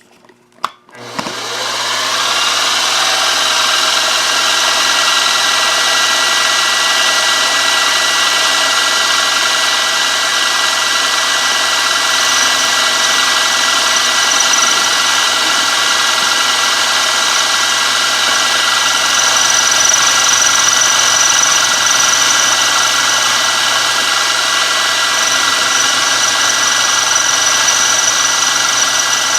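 Milling machine spindle motor starting about a second in, rising in pitch, then running steadily with a 1/4 inch end mill.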